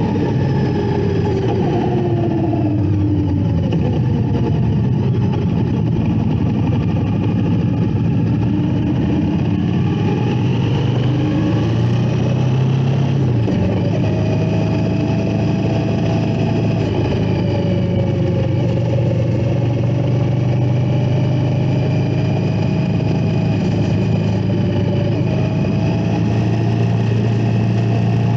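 Indian Scout Bobber's V-twin engine running steadily while riding along at road speed. Its pitch drifts gently up and down with the throttle.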